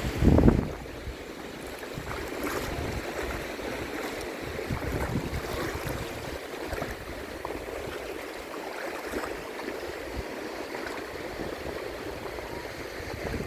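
Sea water lapping and splashing with small scattered ticks. A brief loud rumble of wind on the microphone comes right at the start.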